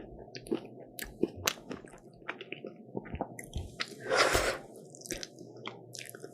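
Close-miked eating of a croffle: crisp little crunches and moist chewing, with one louder burst about four seconds in.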